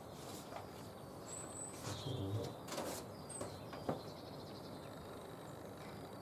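Wild birds calling: a few short, high chirps and whistles over a quiet background, with a brief low sound about two seconds in and two sharp knocks about three and four seconds in.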